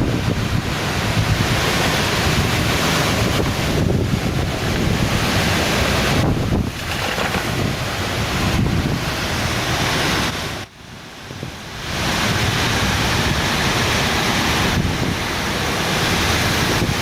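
Strong wind buffeting the microphone, a dense rushing roar that drops out briefly about two-thirds of the way through.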